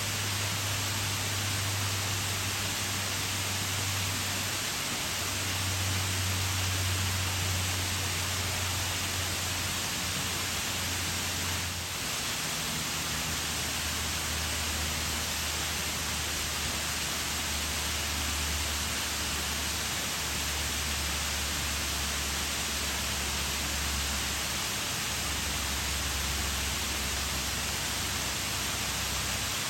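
Waterfall pouring steadily: an even rushing hiss of falling water with a low rumble underneath.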